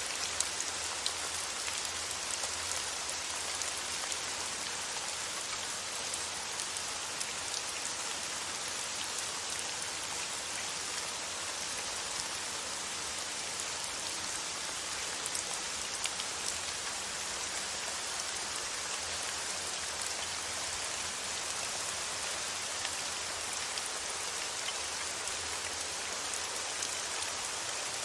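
Steady rain falling, with the patter of scattered drops on a surface. It is continuous and unchanging, as used for white noise.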